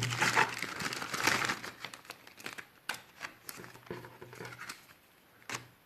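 Packaging crinkling and tearing as card decks are unwrapped, dense and loudest for the first couple of seconds, then thinning to scattered rustles and a few sharp clicks.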